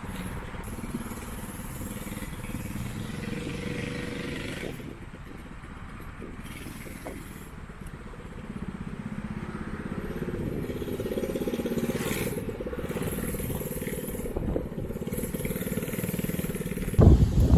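Straight-piped Predator 212 single-cylinder engine running, getting gradually louder. Near the end, wind buffets the microphone.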